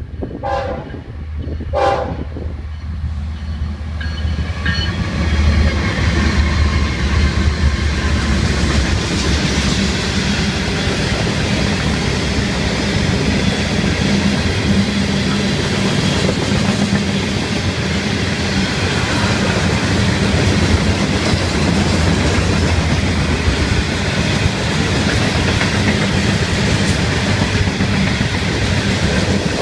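Two short horn blasts from the lead GE ES44C4 diesel locomotives in the first two seconds, then their engines pass with a low drone, followed by a long string of loaded freight cars rolling steadily by with the noise of steel wheels on rail.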